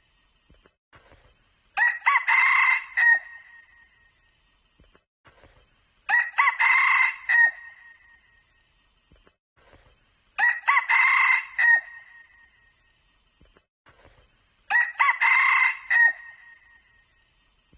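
Red junglefowl cock crowing four times, a short crow repeating at even intervals of about four seconds.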